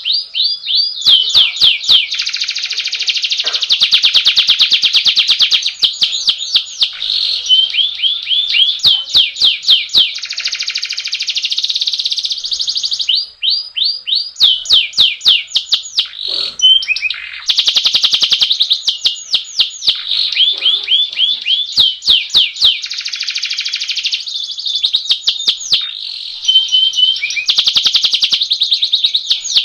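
Domestic canary singing a long, almost unbroken rolling song: fast trills and rapid runs of repeated sweeping notes, high-pitched, with only a brief pause about halfway through.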